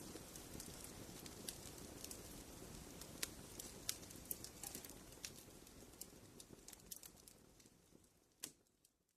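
Wood fire crackling, with scattered sharp pops over a soft hiss. It fades out over the last few seconds, one last pop near the end, and then goes silent.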